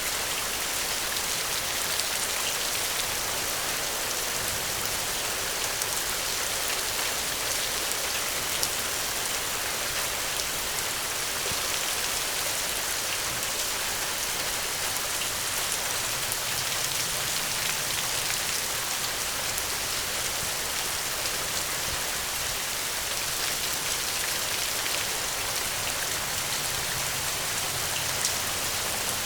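Steady heavy rain falling, an even hiss with occasional sharp ticks.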